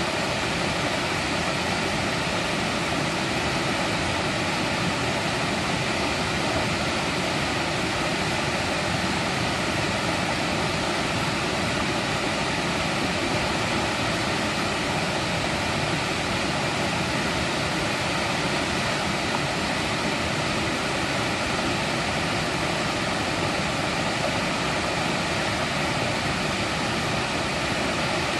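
Mountain stream rushing over rocks in a steady, even flow.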